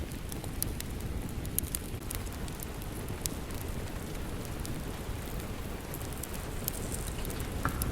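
Steady rain with a low rumble, mixed with a wood fire crackling in scattered sharp pops.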